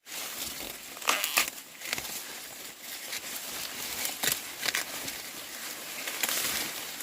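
Rustling and crackling of something being handled, with a few sharp snaps about a second in and again a little past four seconds.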